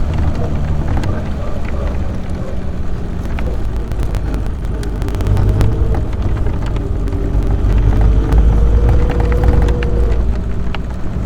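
An AC Buckland's two-litre straight-six engine running as the car drives along, with light clicks and rattles over it. About two-thirds of the way in, a faint whine rises gently in pitch for a few seconds.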